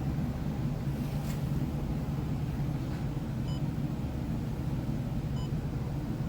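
Steady low mechanical hum, with two short high electronic beeps about two seconds apart.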